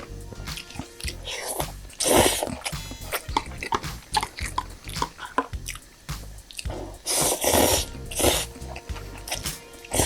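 Close-miked eating sounds: chewing and biting, with many small wet clicks. Louder, longer noisy bursts come about two seconds in and again around seven seconds.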